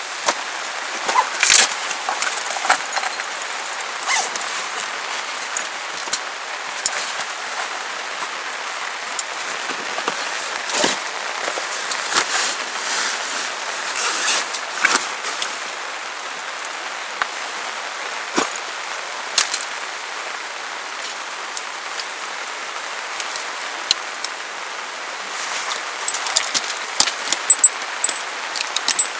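Steady rain falling, with scattered sharp drops ticking on a nearby surface, more of them near the end.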